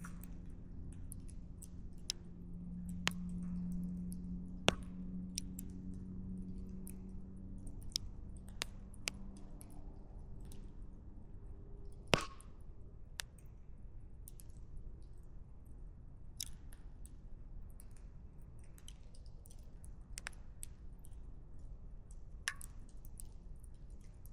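Burning firewood crackling, with irregular sharp pops and snaps, the loudest about halfway through, over a low rumble. A low steady hum sounds in the first half and fades out.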